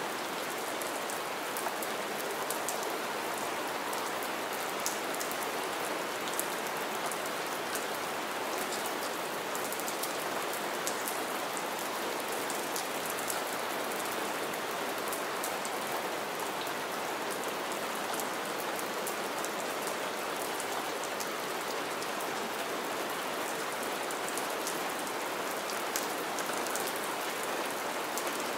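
Steady rain falling into shallow standing water over pine needles, an even hiss dotted with many small, sharp drop splashes.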